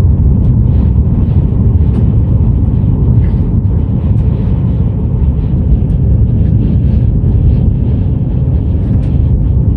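Car driving in a strong gusty windstorm: a loud, steady low rumble of wind buffeting the car and road noise.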